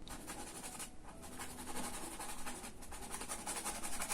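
Bristle brush working oil paint in a run of quick, scratchy strokes.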